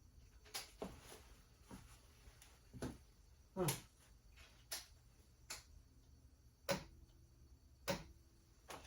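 A series of short, sharp clicks and knocks, about one a second and unevenly spaced, with no engine or starter motor turning over.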